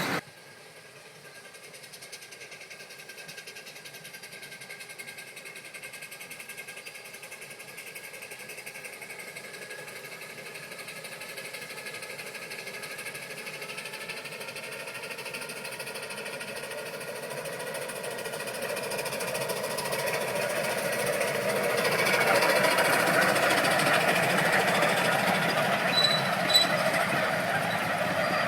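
12-inch gauge steam locomotive No. 37 running on test, its sound growing steadily louder over about twenty seconds as it approaches, then holding loud.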